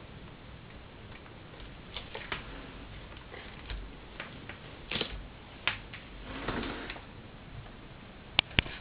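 Scattered light clicks and taps, with a brief rustle about two-thirds of the way through and two sharp clicks near the end; no vacuum cleaner motor is running.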